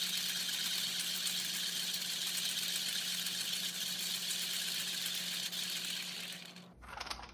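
Electric coffee grinder running steadily as it grinds espresso beans, a motor hum under a loud whirring, then switching off abruptly about six and a half seconds in, followed by a brief clatter.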